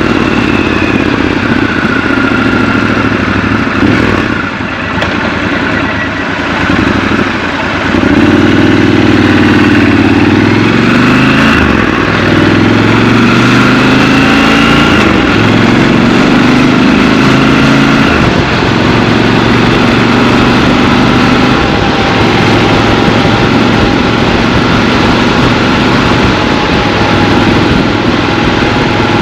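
Triumph Scrambler 1200 XC's 1200 cc parallel-twin engine on the move in traffic. It runs quieter off the throttle for a few seconds about a fifth of the way in, then pulls up through the gears with its pitch rising in several steps, before settling into a steadier cruise.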